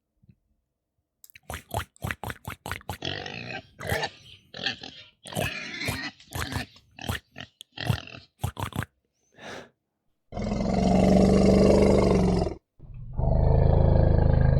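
Recorded animal calls: a quick run of short, sharp grunts, then two long, loud low calls in a row, the second still going at the end. The calls are taken for an elephant's.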